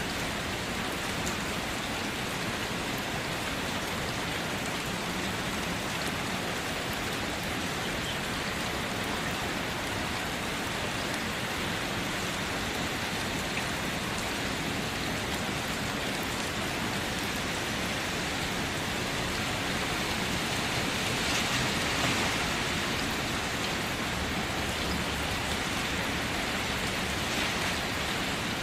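Steady rain falling and pattering on surfaces, a dense even hiss that swells slightly for a moment about three quarters of the way through.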